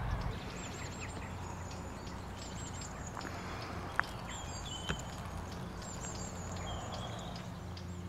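Small birds chirping faintly, many short high calls over a low steady hum and background noise, with two sharp clicks about four and five seconds in.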